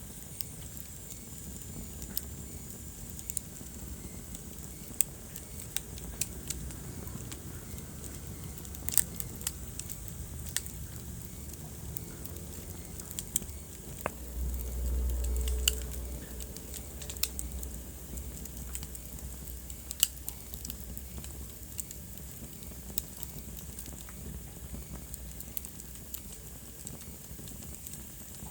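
Wood fire in a fireplace crackling, with irregular sharp pops and snaps over a steady low rumble of the flames. About halfway through, a deeper low rumble swells for around two seconds.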